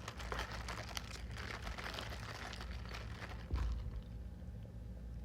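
Paper takeout packaging crinkling and rustling in irregular bursts as fast-food items are handled and unpacked, with a soft thump about three and a half seconds in; the rustling dies down near the end.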